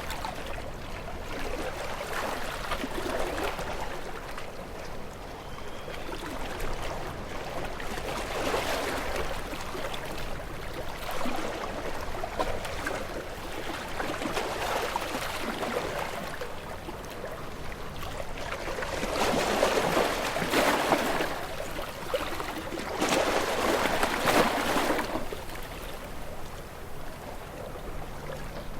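Ocean waves washing in and receding in a steady series of swells, the loudest two breaking near the end.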